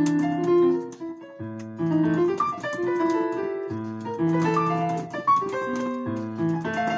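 Piano playing: deep bass notes struck every couple of seconds under a dense run of overlapping notes and chords higher up.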